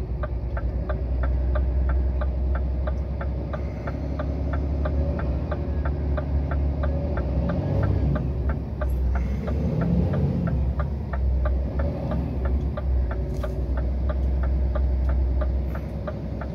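Scania truck's diesel engine running at low revs under load, heard inside the cab, as the empty truck crawls up an icy grade. A steady clicking, about three ticks a second, runs over the engine throughout.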